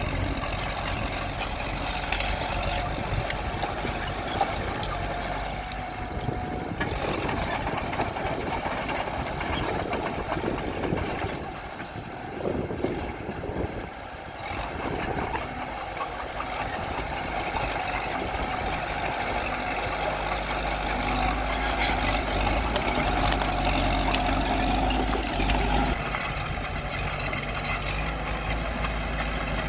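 Heavy diesel machinery of a bulldozer and dump truck running steadily, easing off briefly about 12 seconds in and working harder again in the second half.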